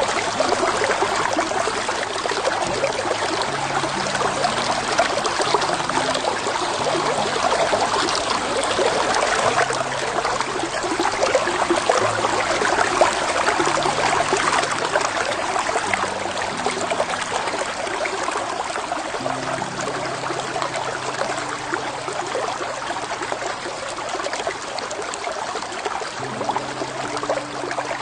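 A shallow, clear creek flowing steadily over a bed of stones and gravel, a constant rushing and trickling of water.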